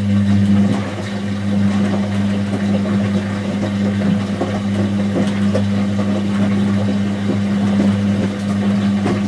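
Whirlpool AWG023 H-axis top-loading washing machine running mid-cycle: a steady low mechanical hum with water splashing and light clicks over it, cutting off near the end.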